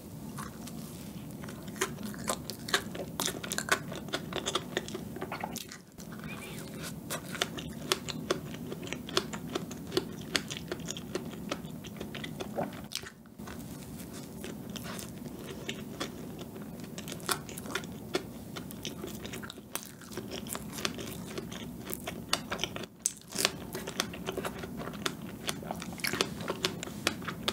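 Close-miked eating sounds: bites into chocolate cream cake topped with fresh strawberry, then steady chewing full of small wet mouth clicks, with a few brief pauses.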